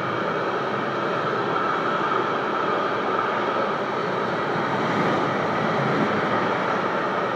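Container freight train rolling steadily across an overpass, with a red regional electric train passing close below about five seconds in, when the noise swells slightly.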